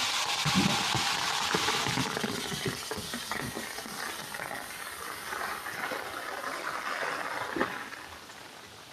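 Heavy rain coming down, an even hiss with scattered small patters, gradually fading over the few seconds.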